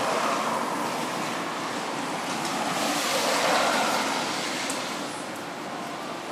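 Honda XR50 motard's small single-cylinder engine running through an aftermarket up-swept muffler, the sound swelling twice, at the start and again about three and a half seconds in.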